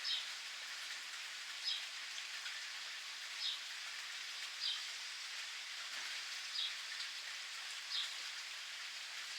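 Steady rain falling and pattering, with a bird in the background repeating a short, high, falling chirp about every one and a half seconds.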